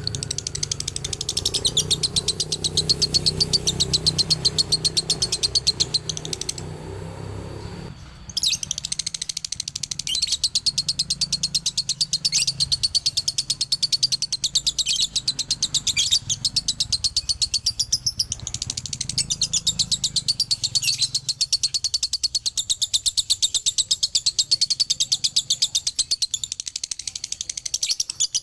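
Male lovebird's long, rapid chatter (ngekek 'dobelan'): a fast, unbroken string of high chirps that stops briefly around seven seconds in, then carries on.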